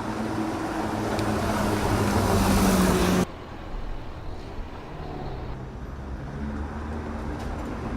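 Porsche 911 Speedster's four-litre naturally aspirated flat-six pulling under load, its note and loudness rising, with growing rushing noise. A little over three seconds in it cuts off abruptly to a quieter, lower engine note that wavers up and down.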